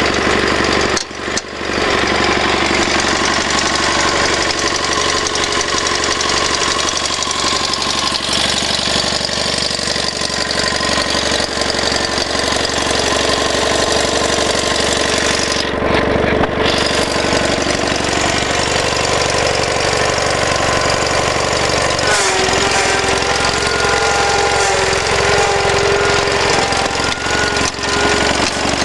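Engine of a Gravely 7173H garden tractor running steadily, its pitch shifting about two-thirds of the way through.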